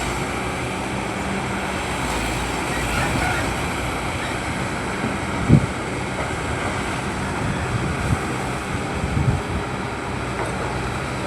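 An engine running steadily with a low hum. There is one sharp knock about halfway through and a few lighter knocks near the end.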